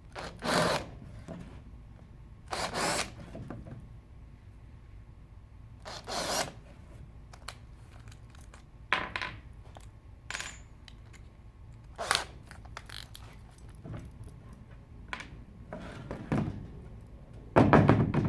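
Irregular knocks and clatters of objects being handled, about nine spread out, the loudest near the end.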